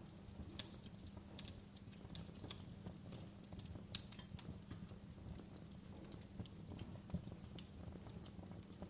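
Wood fire crackling in a fireplace: irregular sharp pops and snaps over a steady low rumble of the flames, with the loudest pops about four seconds in and again about seven seconds in.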